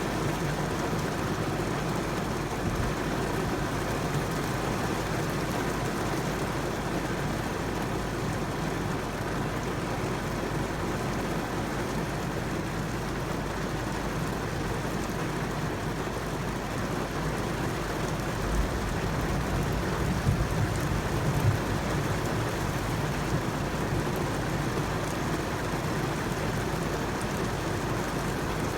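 Steady rain falling, an even hiss throughout, with a few brief low rumbles past the middle.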